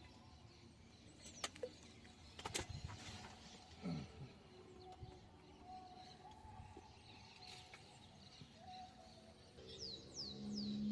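Quiet outdoor ambience with a couple of sharp clicks in the first few seconds and birds chirping faintly, ending in three quick falling chirps near the end.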